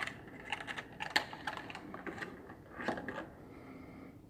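Scattered light clicks and taps as the old and new spark plugs are handled, most of them in the first three seconds.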